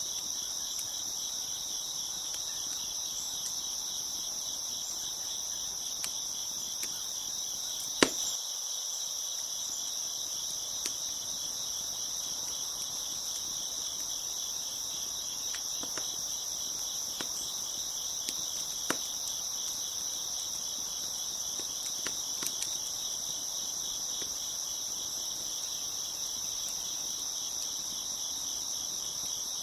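Crickets chirping steadily in a dense chorus, with a few sharp pops of a crackling wood fire, the loudest about eight seconds in and smaller ones later.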